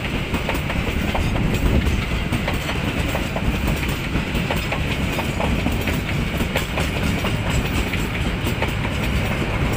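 Passenger train coaches rolling past close by: a steady rumble of wheels on rails with many quick clicks as the wheels cross rail joints.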